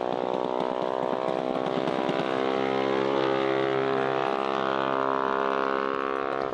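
Mini bike's small engine running hard at a steady high pitch, a little louder from about halfway through.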